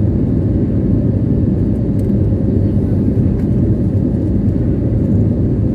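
Steady, loud low rumble of an Airbus A320's engines and airflow, heard from inside the passenger cabin.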